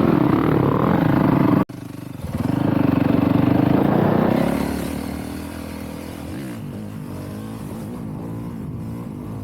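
Dirt bike engines running and revving under throttle as the riders pass each other doing wheelies. The sound breaks off abruptly about a second and a half in, swells loudest between about two and a half and four and a half seconds, then settles to steadier, quieter running.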